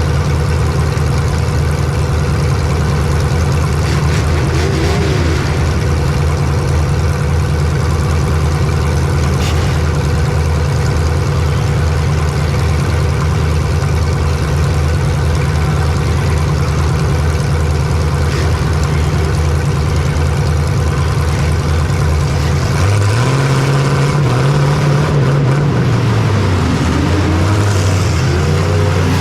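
Racing engine heard from on board, idling steadily, then revving up and down repeatedly over the last several seconds as it pulls away.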